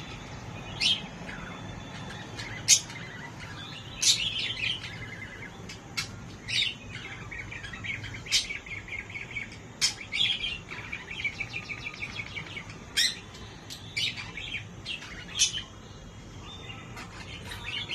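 Birds chirping: sharp, high single calls every second or two, with stretches of fast, chattering trills between them.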